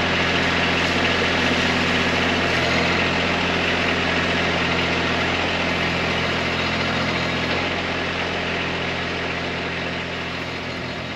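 Kubota B2301 tractor's three-cylinder diesel engine running steadily as it drives the BH70 backhoe, easing off slightly near the end.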